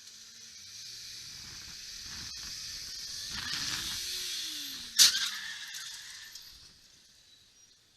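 A car crash: road noise grows louder for several seconds, then one sharp impact about five seconds in, dying away over a second or so.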